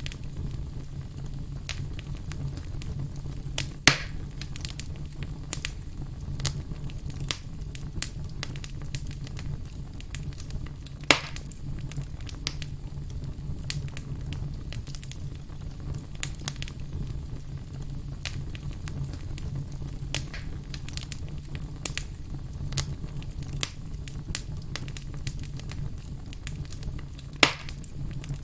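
Burning firewood crackling: irregular sharp pops and snaps over a low steady rumble of the fire, with three louder pops, one about four seconds in, one near the middle and one near the end.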